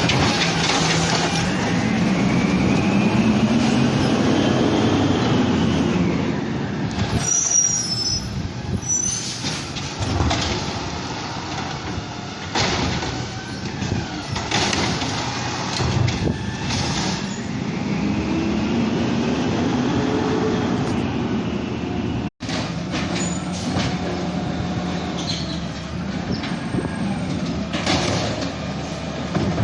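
Garbage truck working at the curb: its engine revs up and back down twice as the hydraulic packer cycles, with metallic knocks and clanks throughout.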